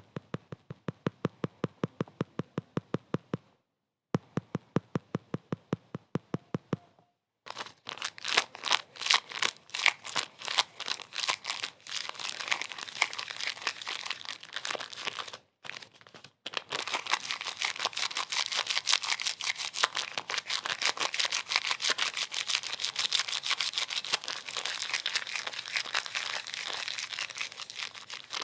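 Evenly spaced sharp clicks, about six a second, broken by two short pauses. About seven seconds in they give way to a dense, irregular crackling that runs on with one brief break.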